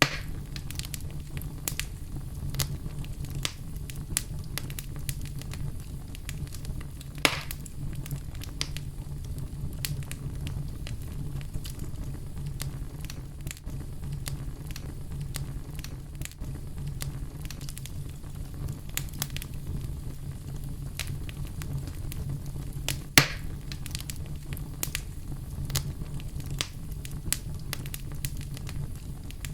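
Wood fire burning in a fireplace: a steady low rumble of flames with scattered crackles and a few louder pops, the loudest about 23 seconds in.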